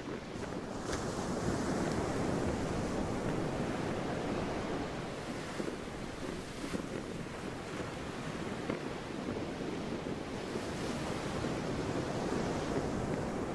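Sea waves washing in continuously, with wind, swelling louder about a second in and again near the end.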